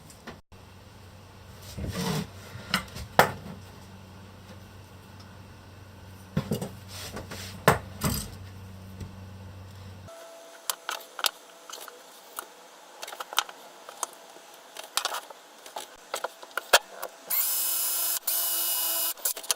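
Knocks and clatter of tools and a plywood piece being handled, then a power drill running steadily for about two seconds near the end, drilling the sign's mounting holes.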